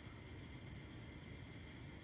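Gas stove burner flame burning with a faint, steady low rush and hiss.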